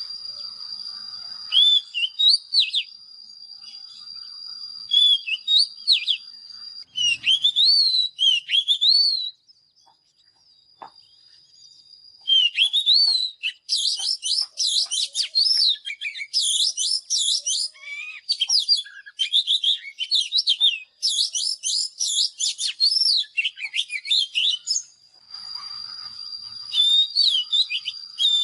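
Oriental magpie-robin singing: varied whistled phrases of quick rising and falling notes in bursts, with a pause of a few seconds about a third of the way in, then a long dense run of song. A steady thin high tone sounds under the song at the start and near the end.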